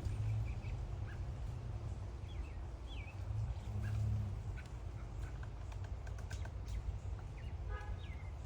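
Several wild birds chirping and calling in short scattered notes, with a quick run of notes near the end, over a steady low rumble.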